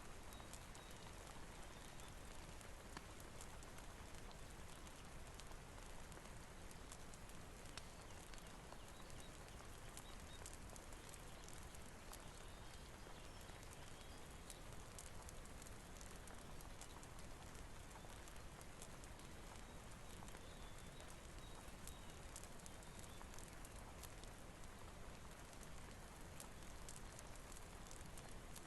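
Faint steady rain hiss mixed with the scattered sharp crackles and pops of a wood fire.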